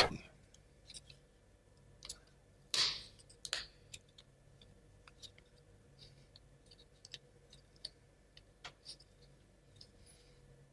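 Scattered faint clicks and taps of wooden model-kit parts being handled and fitted together as pins are pushed into their slots, with a soft rustle about three seconds in.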